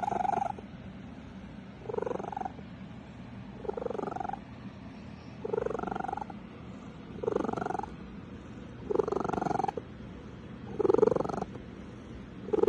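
Domestic cat purring, record-breaking loud: a steady low rumble that swells louder about every two seconds.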